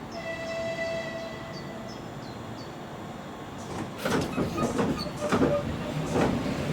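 EP2D electric multiple unit at a platform. A brief steady multi-tone hum is followed, about four seconds in, by a louder run of knocks and clatter from the train.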